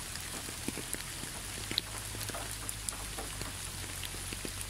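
Steady rain falling on a surface, with many small scattered drop ticks and a steady low hum underneath.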